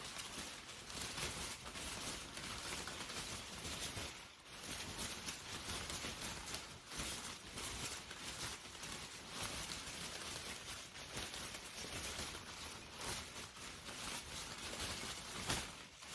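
Steady rain falling, an even hiss of many small drop sounds, with a brief dip about four seconds in.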